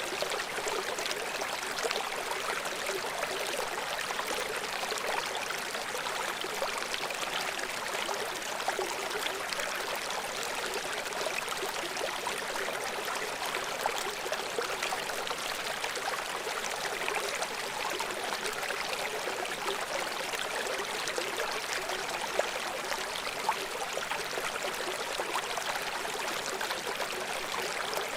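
River water running and splashing over rocks below a small waterfall: a steady rushing with fine trickling and gurgling detail and no change in level.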